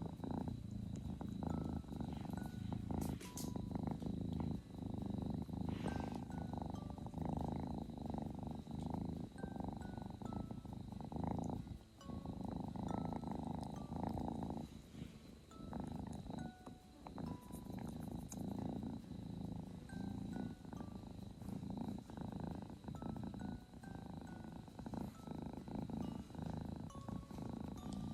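Kitten purring continuously while asking for attention, with a couple of brief pauses around the middle.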